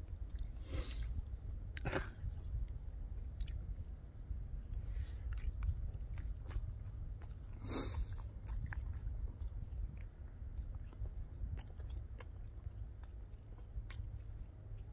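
A man chewing food close to the microphone, with a few louder crisp sounds about a second in, about two seconds in and loudest near eight seconds, over a steady low rumble.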